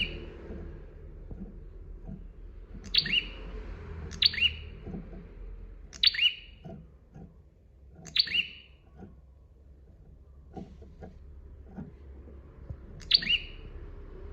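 Prinia (prenjak) singing: short, sharp, high-pitched calls, about six of them, separated by irregular gaps of one to five seconds.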